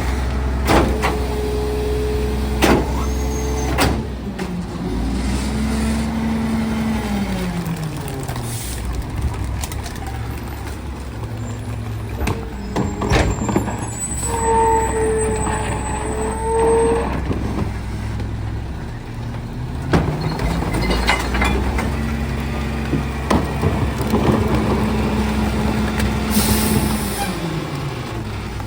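Garbage truck's diesel engine running, its speed rising and falling back twice, with air brake hisses and scattered clanks. About halfway through, a steady tone sounds for about two seconds.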